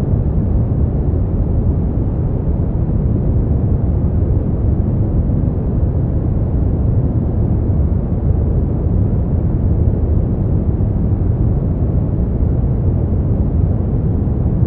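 Steady generated noise sleep-aid track, unchanging throughout: a deep, rumbly hiss weighted toward the low end, with little high-pitched hiss.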